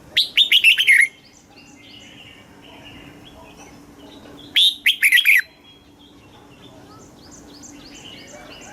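Red-whiskered bulbul singing two short, loud phrases about four and a half seconds apart, each a quick run of clear falling whistled notes. Fainter, rapidly repeated chirps of other birds fill the gaps.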